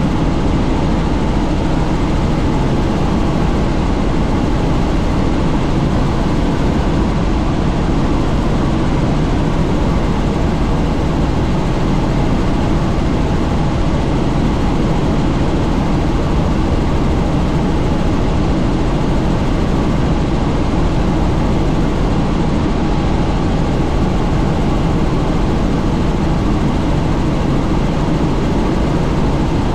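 Helicopter in flight, heard on board: steady engine and rotor noise with a low hum, unchanging throughout.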